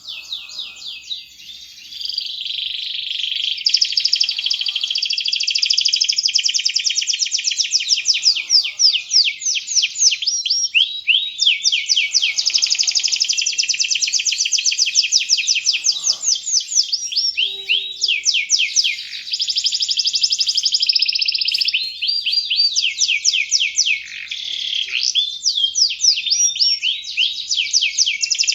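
Domestic canary singing a long, near-unbroken, high-pitched song of fast rolling trills and rapidly repeated notes, switching from one trill pattern to another every few seconds.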